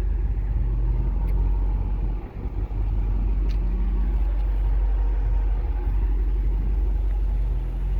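A 2010 Dodge Challenger SRT-8's 6.1-litre HEMI V8 idling through its Corsa performance exhaust: a steady, deep rumble with no revving.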